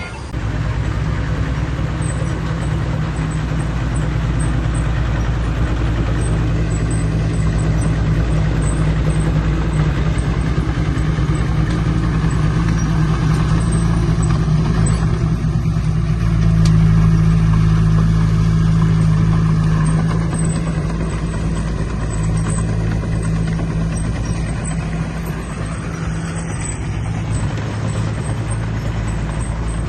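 Heavy diesel engine of earthmoving machinery running steadily under load, growing louder a little past the middle and then easing off.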